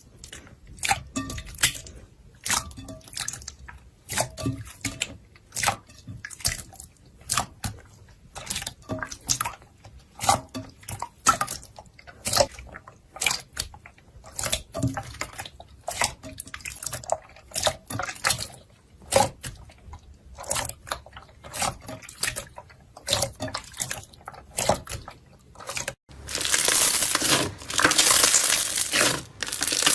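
Wet slime being squeezed and poked, giving a quick irregular run of sticky pops and clicks. About 26 seconds in it switches abruptly to louder, continuous crunching as something crunchy is crushed.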